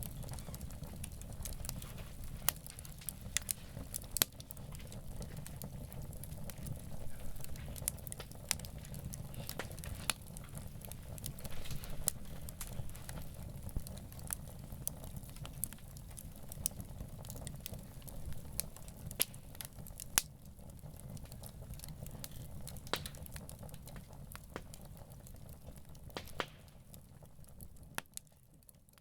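Wood campfire crackling: irregular sharp pops and snaps over a steady low rumble. The sound fades out near the end.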